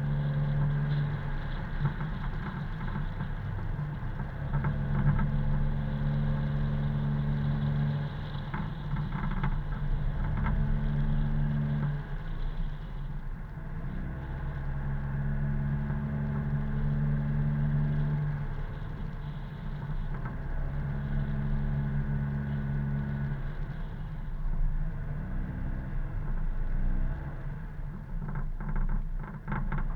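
A car's engine and road noise heard from inside the moving car, a steady low hum that strengthens and eases every few seconds.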